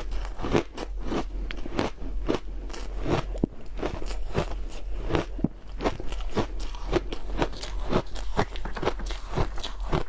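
Close-up crunching of powdery compacted ice snowballs being bitten and chewed, a rapid, irregular run of sharp crunches several times a second.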